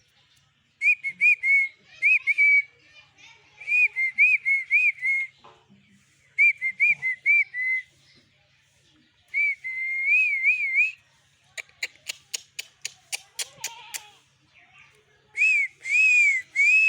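Short bursts of wavering whistles, repeated about five times. In the middle they give way to a quick run of about ten sharp clicks.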